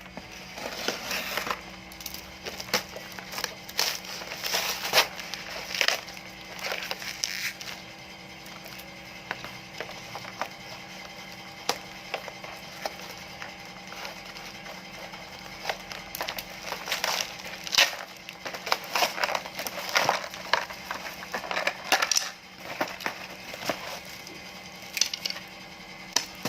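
Metal wire bird cages clinking and rattling as they are handled and unpacked: irregular bursts of sharp metallic clicks and knocks, busiest in the first few seconds and again past the middle.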